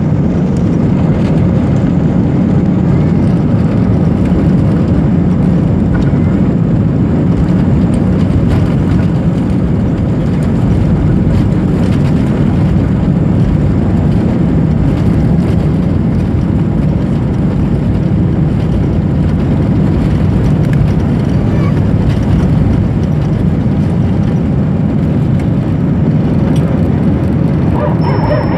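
Airliner taking off: steady, loud jet-engine noise with a deep rumble and no change in level. Just before the end a warbling, wavering tone begins.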